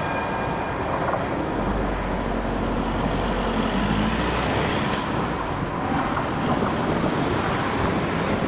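Road traffic, a truck among it, driving past over the railway crossing, with a low engine hum for a few seconds in the middle.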